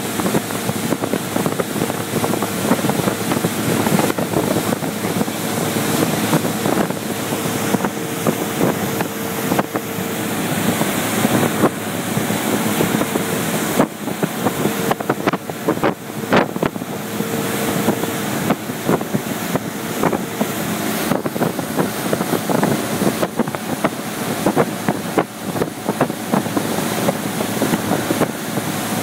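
Motorboat running steadily under way, a faint engine hum beneath heavy wind buffeting on the microphone, with scattered irregular knocks.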